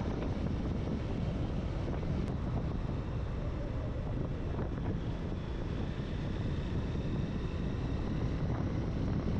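Steady low rush of wind on the microphone of a moving motorcycle, with the bike's running and road noise underneath.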